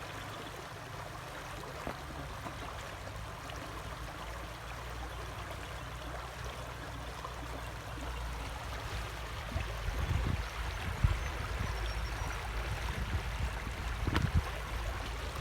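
River water flowing steadily. From about halfway through, low rumbling bumps and a few short knocks come in over it.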